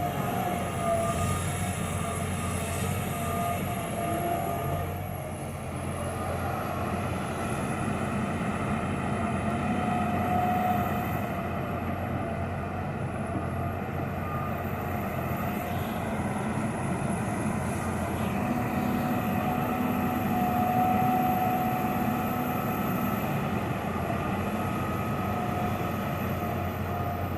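John Deere 350G LC hydraulic excavator's diesel engine running steadily under working load, with thin whining tones that waver slightly in pitch above the drone. A sharp knock comes at the very end.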